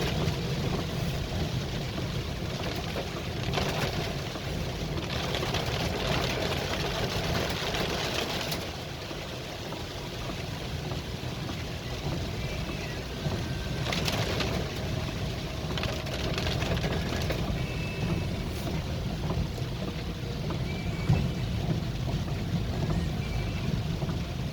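A vehicle travelling through heavy rain: a steady low engine hum under a continuous wash of rain and road noise that swells and eases.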